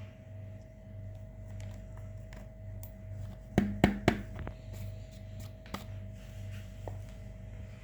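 Purple glitter slime being worked by hand, giving faint sticky clicks and, about three and a half seconds in, three louder snaps close together, over a steady low hum.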